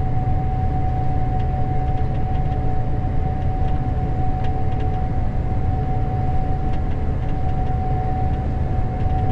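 Gleaner S98 combine running steadily, heard from inside the cab: a constant low engine and machine drone with a steady high whine held over it, plus a few faint ticks.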